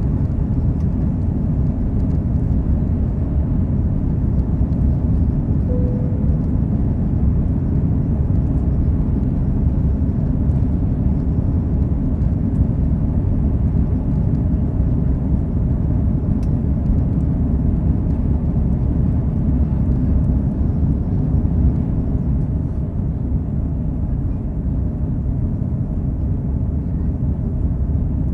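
Steady low rumble heard inside the cabin of an Airbus A330-300 with its Rolls-Royce Trent 700 engines running. A brief short tone sounds about six seconds in.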